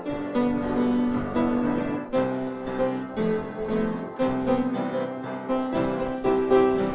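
Instrumental piano music: notes struck a few at a time and left to ring.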